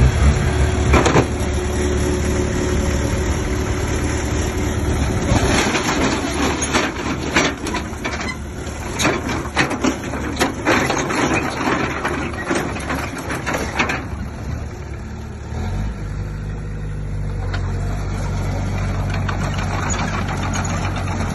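Engine of heavy earthmoving machinery running under load. Through the middle come many irregular knocks and scraping clatter, as of soil and rock being pushed. From about three-quarters of the way in, the engine drone turns steadier and deeper.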